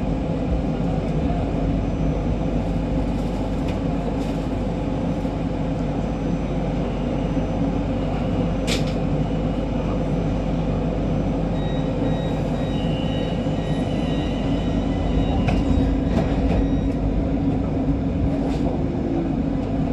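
Siemens Inspiro MRT metro train running, heard from inside: a steady rumble of wheels and motors with a constant hum, and one sharp click about nine seconds in.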